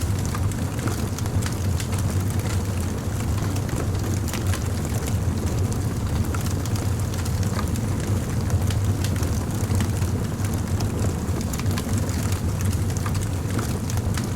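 Fire crackling: frequent small, sharp pops and snaps scattered over a steady low rumble.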